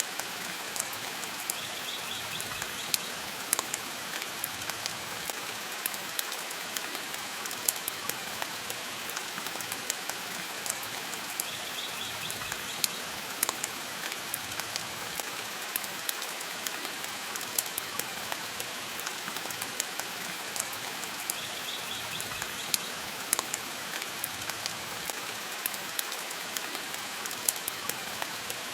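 Steady rain hissing, with a wood fire crackling and popping in sharp irregular snaps over it.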